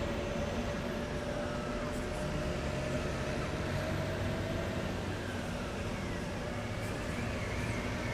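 A column of heavy military vehicles driving past, with steady engine and tyre noise that holds at an even level.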